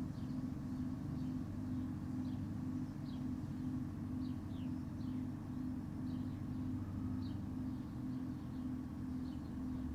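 A steady low mechanical hum that pulses about twice a second, with faint high bird chirps scattered through it.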